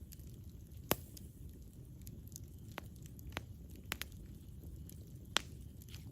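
Campfire crackling: sharp, irregular pops and snaps of burning wood, about seven of them, the loudest about a second in and another near five and a half seconds, over a low steady rumble of the fire.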